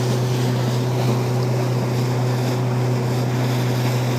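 Pontoon boat's motor running at a steady pitch, with wind and water rushing past.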